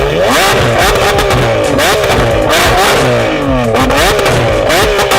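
Modified sports car engine revved hard again and again, its pitch climbing and dropping back several times, with sharp cracks between the revs.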